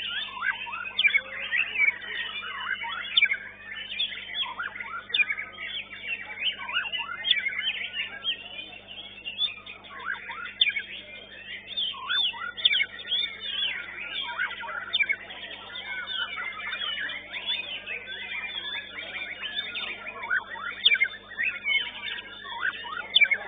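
Several white-rumped shamas (murai batu) singing at once in a competition, a dense, unbroken tangle of rapid whistles, trills and chirps, over a steady low electrical hum.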